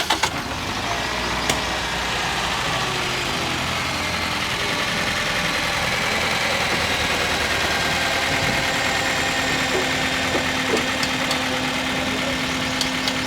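Toyota Corolla XLi's four-cylinder petrol engine idling steadily just after being started, run to check a noise the mechanics trace to the VVT-i system. A steady low hum joins about eight seconds in.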